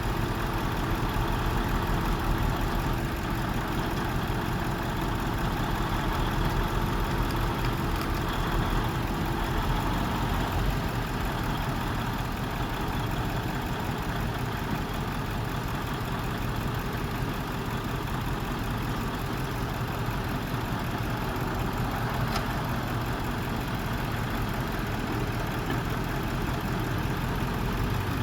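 A truck engine idling steadily, with a faint steady hum over it that stops about ten seconds in.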